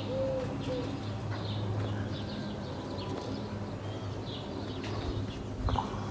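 Small birds chirping repeatedly in short high notes, with a dove cooing three short notes about a second in. A steady low hum runs underneath, and there is a short knock near the end.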